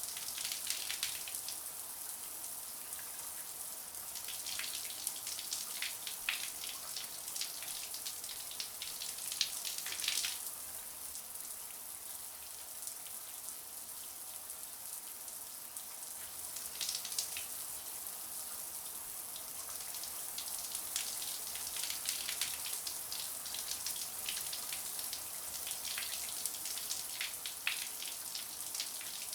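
Shower spray running steadily: a constant high hiss of water with irregular patters of drops striking the surface below.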